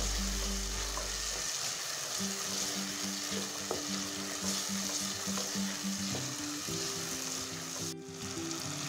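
Chickpeas frying in an onion-tomato masala in a pot, sizzling steadily while a wooden spatula stirs them through: the bhuna stage, with the masala being fried down before water goes in.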